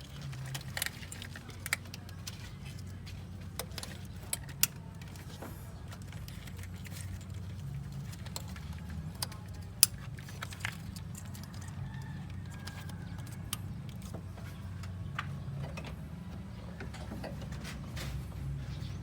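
A car's gasoline engine running steadily at idle, with occasional sharp metallic clinks, the loudest about ten seconds in.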